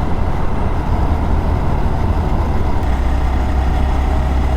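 Small motorcycle's engine running while being ridden, under a rush of wind noise on the microphone; the engine note drops slightly about three seconds in.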